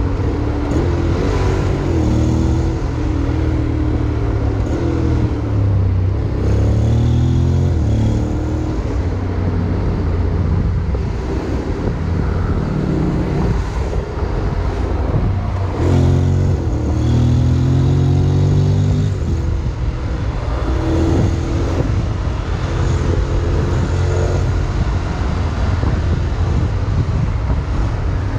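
Honda X-ADV 750's parallel-twin engine under way, its pitch rising and dropping back several times as the bike accelerates and shifts, over steady wind and road noise.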